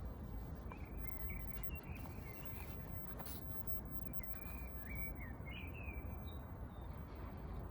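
A bird calling in a string of short wavering chirps for several seconds over a steady low city hum.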